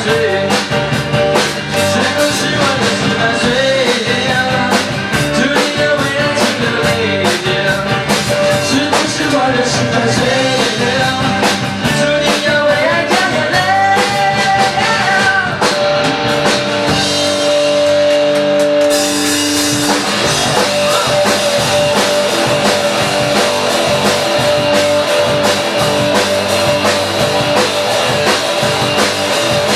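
Rock band playing: a singer over guitar and drum kit. The vocal line ends about fifteen seconds in and a few notes are held. Around twenty seconds in the band comes in harder with brighter cymbals.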